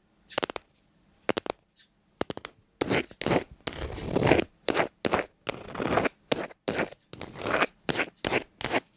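A series of crisp crunching and scraping noises: a few sharp separate clicks in the first couple of seconds, then a denser run of longer crunches from about three seconds in.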